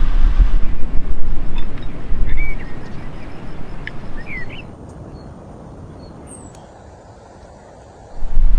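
Low rumble of wind buffeting the microphone outdoors, with two short bird chirps about two and four seconds in. The rumble dies down about five seconds in and comes back loud near the end.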